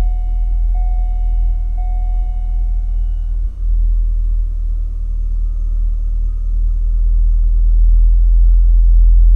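Chevrolet Corvette C5's 5.7-litre V8 on its stock, unmodified exhaust, running with a steady low rumble. A high beep repeats about once a second over it and stops about three and a half seconds in.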